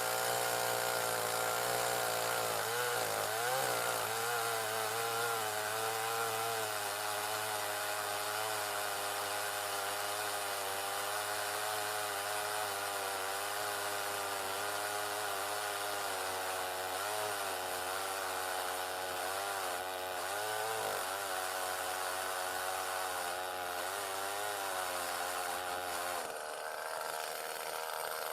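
ECHO CS-361WES two-stroke chainsaw running under load, ripping lengthwise along a log. The engine pitch wavers up and down as the cut loads and eases it, and the sound changes about two seconds before the end.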